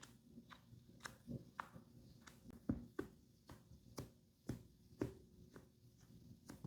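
Soft irregular taps and clicks of makeup tools and containers being handled, about one or two a second, with a few sharper knocks around the middle.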